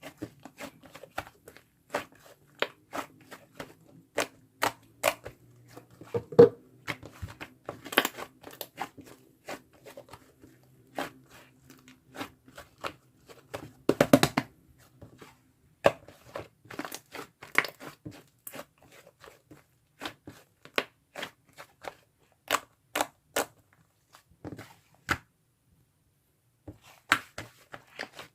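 Slime being squished and poked by hand, giving irregular crisp pops and crackles, several a second, with a few louder pops.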